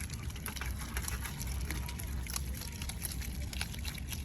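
Water splashing and trickling, with many short, sharp clicks and squeaks scattered over a steady low rumble, as otters move about in water.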